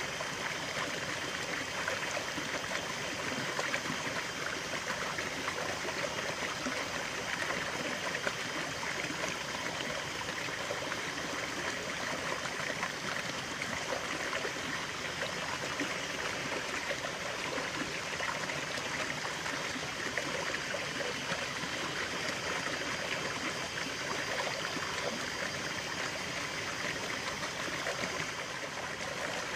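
Stream water running steadily over stones, a continuous babbling and trickling.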